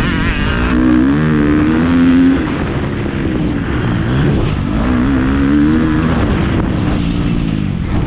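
Motocross bike engine revving, its pitch climbing and dropping twice as the throttle is opened and closed.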